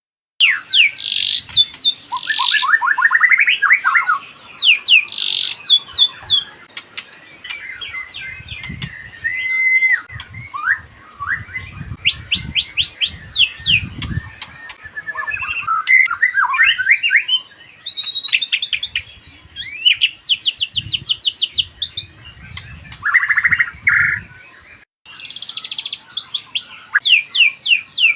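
White-rumped shama (murai batu) singing a long, varied song: quick runs of repeated whistled notes and trills, broken by short pauses, with a few low thumps underneath.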